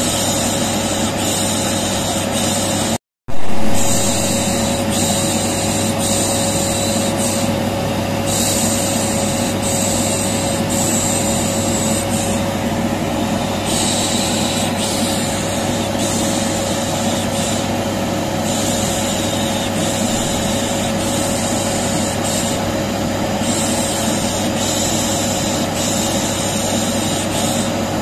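Vacuum cleaner running steadily with a constant hum, with a person's 'shh' shushing coming and going over it. About three seconds in, the sound cuts out for a moment and comes back with a brief loud jump.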